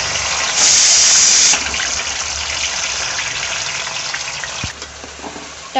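Chopped tomatoes hitting hot oil in a steel kadai, sizzling loudly. The sizzle surges about half a second in, then settles and slowly dies down.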